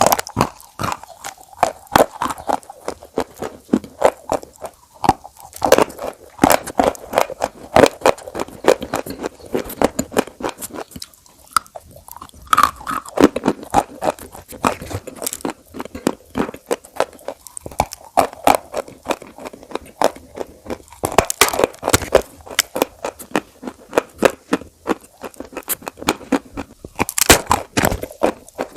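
A person biting and chewing crunchy food: a dense, irregular run of sharp crunches.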